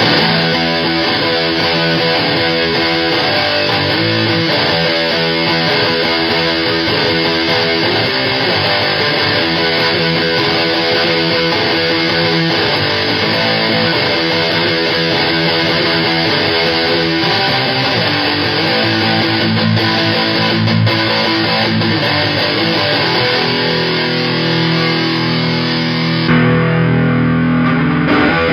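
Heavily distorted electric guitar riffing through a fuzz pedal pushed by an overdrive in front of it, played through a solid-state guitar amp. The tone changes slightly near the end, with less top end.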